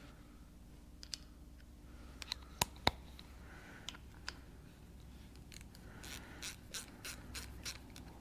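Light metallic clicks and scraping of hand tools and small pump parts being handled during bench disassembly of a diesel injection pump, with two sharper clicks near the start and a run of lighter clicks near the end.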